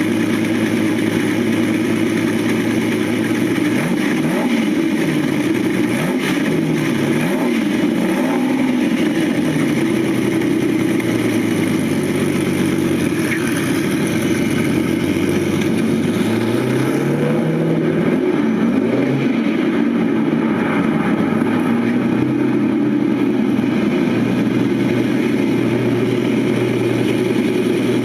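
1985 Lamborghini Countach 5000 QuattroValvole's carbureted V12 engine running and being revved again and again, its pitch rising and falling with each blip, then settling to a steady idle near the end.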